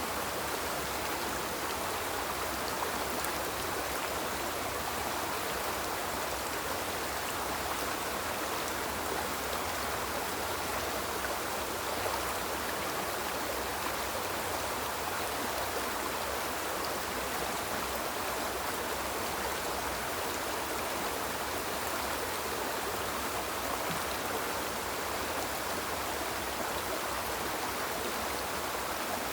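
Small river flowing in a steady, even rush of water with no pauses or changes.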